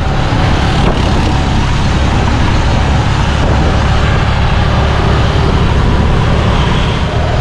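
Motorcycle engine of a sidecar tuk-tuk running steadily on the move, heard from the passenger sidecar, with road and wind noise.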